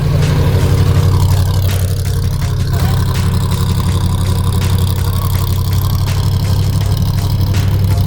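Trophy truck engine idling with a steady, loud, low rumble.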